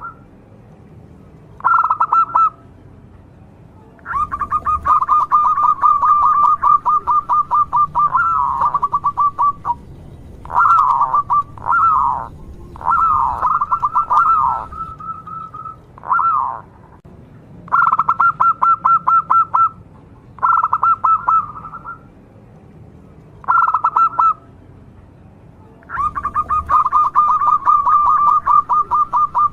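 Zebra dove (local perkutut) cooing loudly in repeated phrases of quick, stuttering notes. Some phrases are short, others run on for several seconds, and there are a few sliding notes around the middle.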